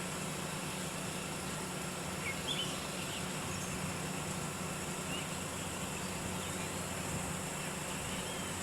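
Steady outdoor background hum with a few faint bird chirps, around two to three seconds in and again near five seconds.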